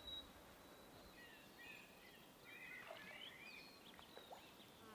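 Near silence with faint bird chirps and short whistles, clustered from about a second and a half to four seconds in.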